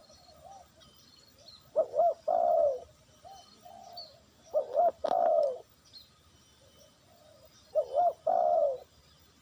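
A dove cooing three times, a few seconds apart. Each phrase is two short notes followed by a longer, falling coo. There are faint high chirps of small birds, and a single click about halfway through.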